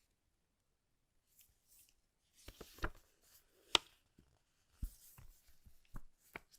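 Packaging being handled: rustling of paper or plastic with a series of light clicks and knocks as parts are moved and set down, and one sharper click a little under four seconds in. The first second or so is almost silent.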